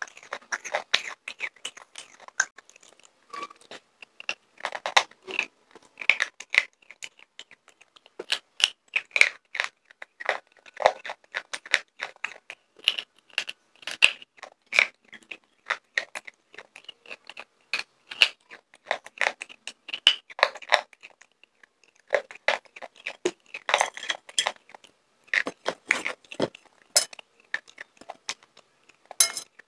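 Close-miked crunching and chewing of slate pencils: irregular sharp crunches, several a second, with a few short pauses.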